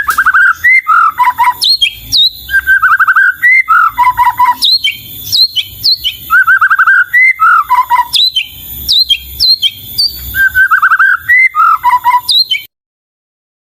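White-rumped shama (murai batu) singing loud, varied whistled phrases. A trill falls to lower notes and is mixed with high whistles, and the same phrase pattern comes round about every two seconds. The song cuts off suddenly near the end.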